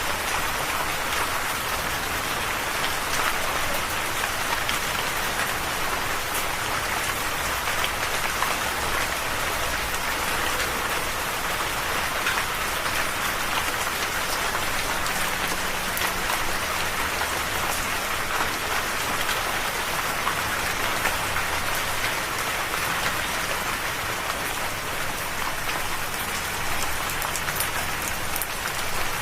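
Steady rain falling on a surface: a continuous hiss of rainfall with scattered individual drops, no thunder.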